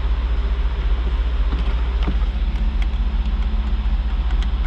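2002 Jaguar XK8's 4.0-litre V8 idling steadily, with a low rumble and a few faint clicks.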